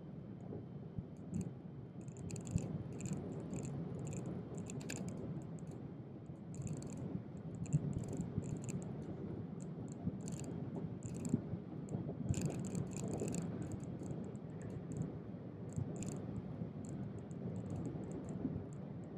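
Passenger train running along the line, heard from inside the carriage: a steady low rumble with frequent irregular light clicks and ticks over it.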